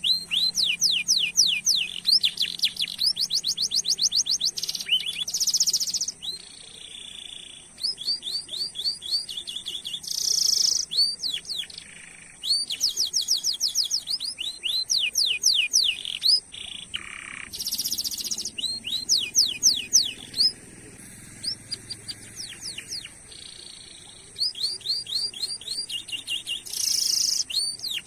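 Domestic canary in full song: fast runs of repeated chirps and rolling trills, phrase after phrase with short pauses between.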